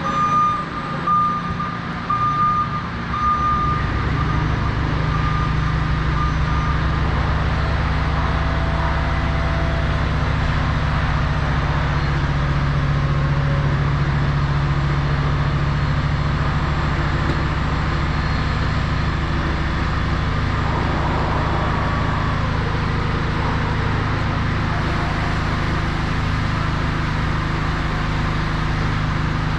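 Crown RR5210 electric reach truck operating: its motion alarm beeps for the first several seconds, and from about three seconds in its electric motor runs with a loud, steady low hum to the end.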